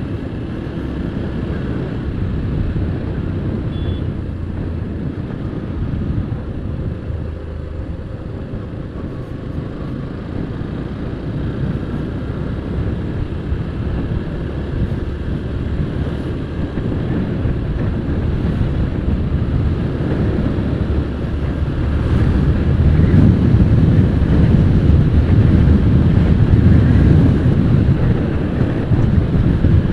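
Yamaha FZS-FI V3 motorcycle's single-cylinder engine running on the move, with wind noise on the microphone. The sound grows louder about two-thirds of the way in.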